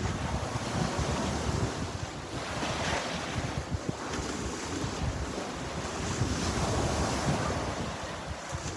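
Sea surf: waves washing in continuously, swelling twice, with wind buffeting the microphone as a low rumble.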